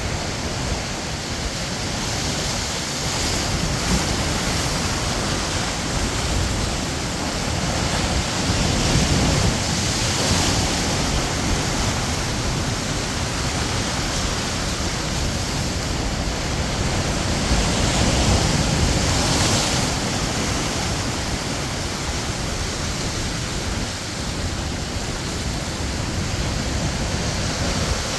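Sea waves breaking on the shore: a continuous rush of surf that swells and eases every several seconds as each wave comes in.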